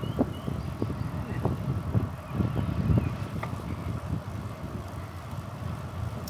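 Bicycle being ridden: a steady low rumble and buffeting, with irregular surges in the first few seconds. A few faint short high chirps come near the start.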